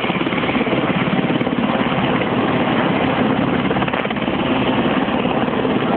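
Westland Sea King helicopter hovering, its twin turbines and rotor making a loud, steady noise with a fast rotor beat.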